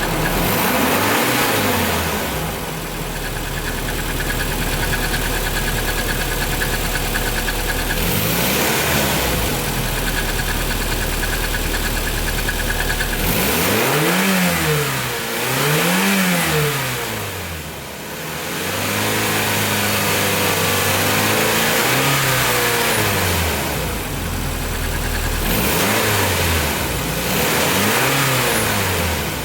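Nissan 240SX's 2.4-litre KA24DE four-cylinder engine idling and being revved in repeated blips, each rise in pitch falling back to idle. Two quick revs come in the middle, then a longer held rev.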